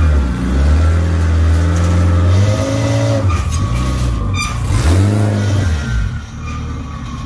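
Honda Civic EG hatchback's engine revving up and down in blips as the car is driven up onto a car trailer, with a sharp clunk about four and a half seconds in. The engine settles to a lower, quieter run near the end.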